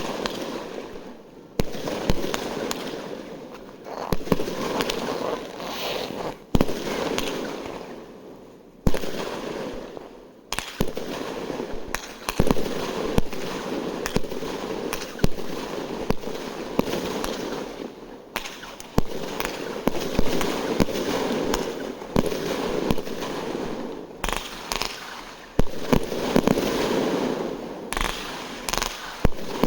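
New Year fireworks going off in quick succession: many sharp bangs over continuous crackling, with a few short lulls.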